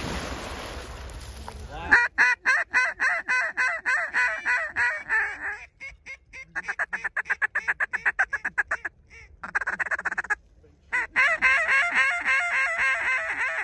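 Goose honking, fast and insistent, several honks a second in runs broken by short pauses. It begins after about two seconds of rustling noise.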